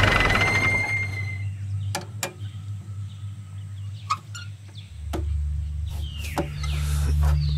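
Bird calls, short chirps and a falling call, with a few sharp clicks, as a music cue fades out; a low steady drone comes in about halfway through.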